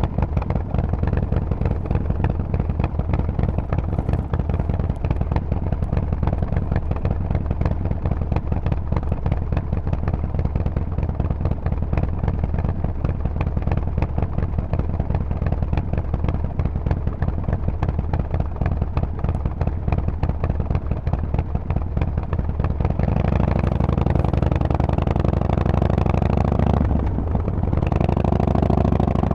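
Harley-Davidson Forty-Eight's air-cooled 1200 cc V-twin running through a Vance & Hines exhaust with a steady, loping beat of firing pulses. Near the end it accelerates, the pitch rising, broken by a short dip as it shifts up a gear.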